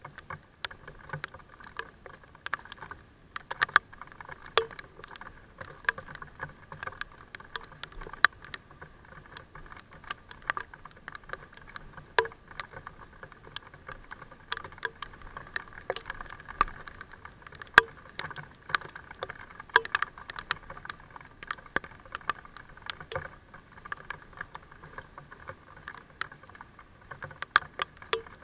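Mountain bike being ridden in the rain: a steady hum with many irregular sharp clicks and taps, like rain and rattles on the bike.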